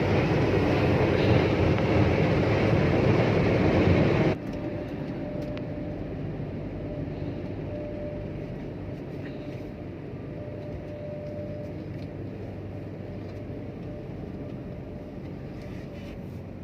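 Car wash equipment running with a loud, steady rushing noise that cuts off abruptly about four seconds in, leaving a quieter steady hum.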